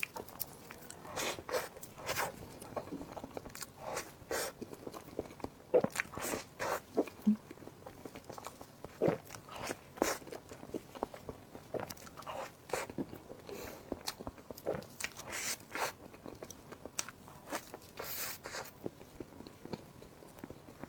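A person eating close to the microphone, biting and chewing with irregular crunching and mouth clicks.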